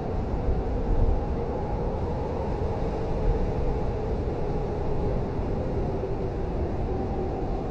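Blizzard wind blowing steadily: a deep rumble with a faint howling tone over it, swelling slightly about a second in and again after three seconds.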